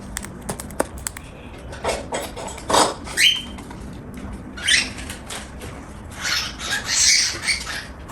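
Cockatiel eating, beak crunching and rummaging: a few sharp clicks in the first second, then several short scratchy rustling bursts, with a brief high note about three seconds in.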